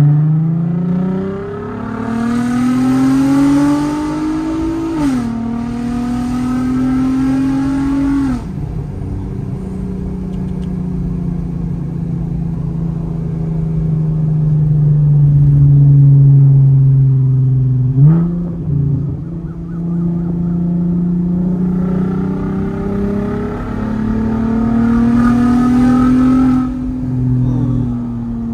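Volkswagen R32's 3.2-litre VR6 engine heard from inside the cabin, pulling hard with revs climbing. It shifts up about five seconds in, climbs again, then lifts off and cruises steadily. There is a brief sharp jump in revs around eighteen seconds, then a second hard pull before easing off near the end.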